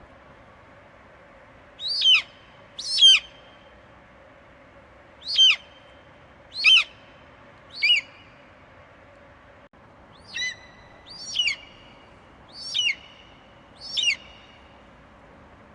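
Eagle screeching: nine short, high calls, each a sharp downward-sliding note, in two loose runs separated by a pause of a couple of seconds, over a faint steady hiss.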